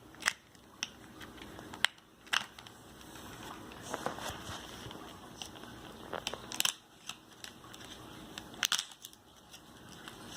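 Plastic toy packaging being cut and handled: scattered sharp clicks and snips with crinkling in between, as the doll's toy soccer ball is freed from its box.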